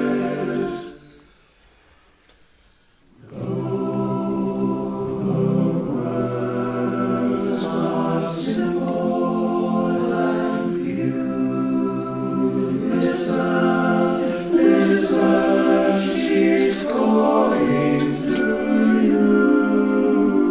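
Male barbershop chorus singing a cappella in close four-part harmony. The singing stops about a second in, leaving a break of about two seconds, then comes back in and carries on.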